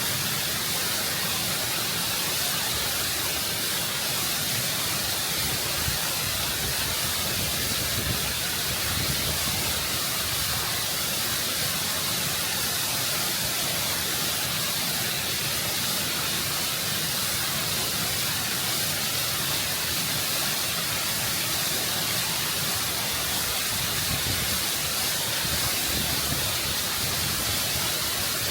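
Waterfall heard close up, water rushing and cascading over rock in a constant, full hiss with a low rumble underneath.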